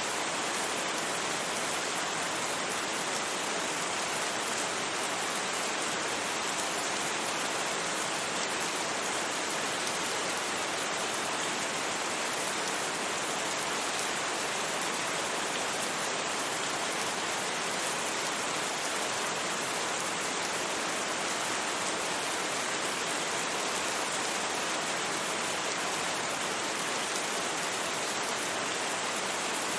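Steady rain falling, an even, unchanging hiss with no separate drops, gusts or thunder standing out.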